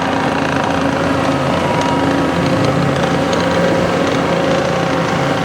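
Diesel engine of a John Deere 331G compact track loader running steadily, a 4-cylinder turbocharged Yanmar.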